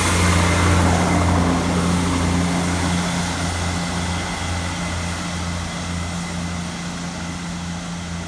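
Class 158 diesel multiple unit departing, its diesel engines giving a steady low drone that slowly fades as the train draws away.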